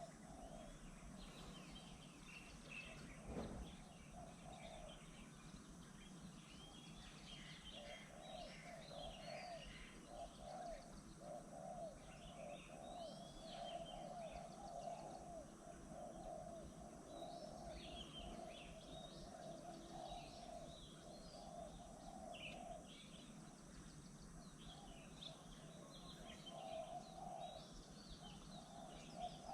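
Faint birdsong: several small birds chirping and whistling throughout, with a dove cooing repeatedly in a low voice through the middle and again near the end. A single short thump about three and a half seconds in.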